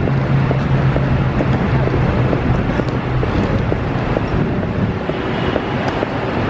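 Steady vehicle running noise, engine and road rumble, with a low hum that fades a little over three seconds in.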